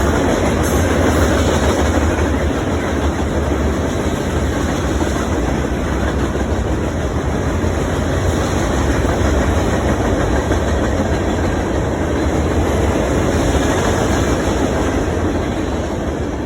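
BNSF freight train rolling past, a steady loud rumble of cars and wheels on the rails that eases slightly near the end.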